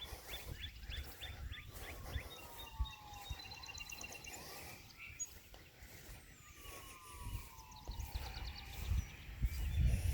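Distant emergency-vehicle siren in a slow wail, its pitch falling and rising over several seconds, with birds singing short repeated trills over it. A low rumble builds near the end.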